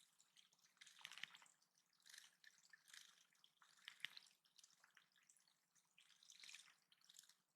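Faint, irregular dripping and trickling of water from a small running backyard water feature for birds, with a couple of sharper drops about a second in and about four seconds in.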